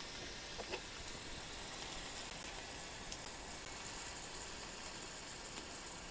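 Beef sizzling on a grill over a fire pit: a steady low hiss with a few faint crackles.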